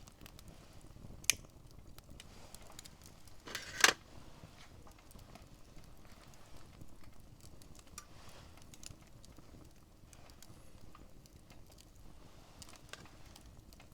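Wood campfire crackling, with scattered small pops and two sharper pops about one and four seconds in.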